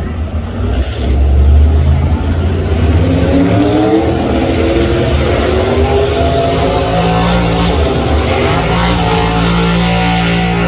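Truck-pulling truck's engine at full throttle on a pull, loud, its pitch climbing steadily for several seconds and then holding high and steady.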